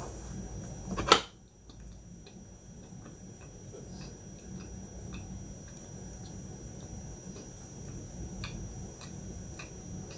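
A sharp crunch about a second in as teeth bite into a flaky milk pie pastry. It is followed by close-up chewing with small, irregular crackles and mouth clicks.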